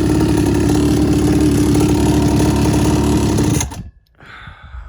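Small 50cc quad bike engine idling steadily, then switched off about three and a half seconds in, stopping abruptly. Faint handling noises follow.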